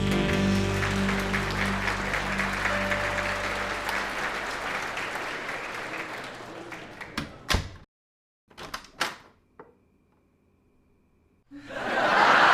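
A theme tune ends on a held chord under audience applause, both fading away over about six seconds. A few sharp clicks follow in near silence, then crowd noise from an audience swells up suddenly near the end.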